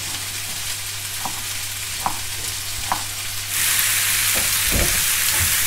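Sliced peppers and diced vegetables frying in a pan on a gas hob, sizzling steadily, with three light knife taps on a wooden chopping board. About three and a half seconds in, the sizzle grows much louder as the vegetables are stirred with a wooden spoon, with a few dull knocks of the spoon in the pan.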